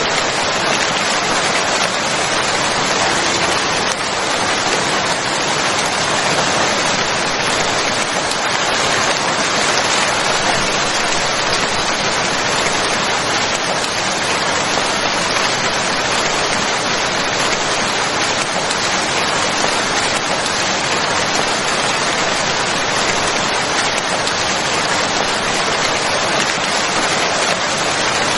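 Steady, dense rain falling, an even hiss of many drops with no let-up.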